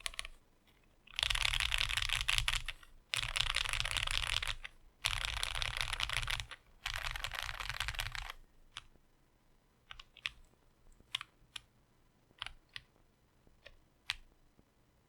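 Custom 60% mechanical keyboard with lubed and filmed FFFF linear switches on a modular FR4 plate and GMK ABS keycaps, the home-row keys rolled in rapid runs: four dense bursts of keystrokes, each about a second and a half long. From about eight seconds in come scattered single sharp clicks as the board is flexed.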